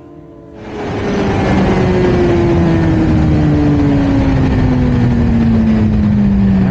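Suzuki GSX-R1000 drag bike engine slowing after a run, its note falling slowly and steadily. About half a second in, a loud rush of wind noise on the microphone sets in over it.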